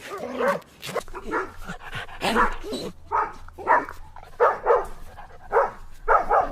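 A dog giving a quick series of short, pitched yips and barks, about two a second, over a faint steady low hum.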